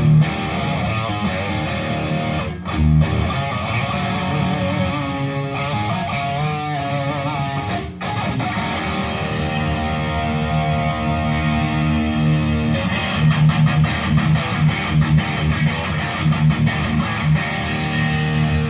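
Electric guitar with P90 pickups played through a Tech21 SansAmp GT2 distortion pedal and a Laney amp. Held chords and some bent, wavering notes give way, a little past the middle, to a choppy rhythm of short, quick chords.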